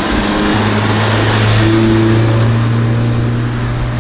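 Modified car's engine running with a steady low exhaust drone, its pitch stepping up slightly about half a second in, over loud general noise.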